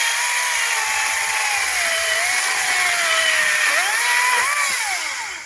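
ECHO DCS-2500T 56-volt battery chainsaw cutting a small pine log. Its electric motor whine drops slowly in pitch as the chain works through the wood, rises again about four seconds in, then winds down near the end.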